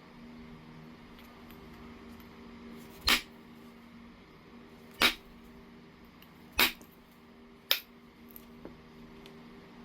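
Knapping strikes on heat-treated Oregon jasper: four sharp, separate blows a second or two apart, as flakes are struck off, followed by a couple of faint ticks near the end. A steady low hum runs underneath.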